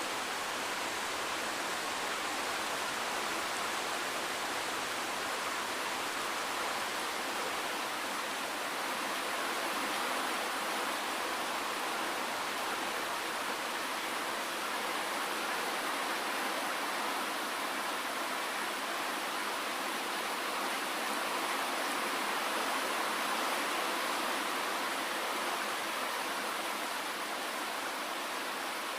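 Steady rain falling: an even, unbroken hiss, with little low rumble.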